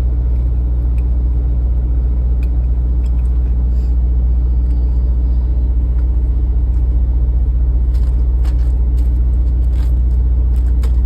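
Semi truck's diesel engine idling, a steady low rumble heard inside the cab, with a few faint clicks and rustles of things being handled.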